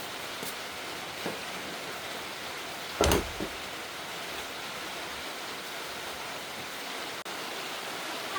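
Steady rush of falling water, with one short loud knock about three seconds in.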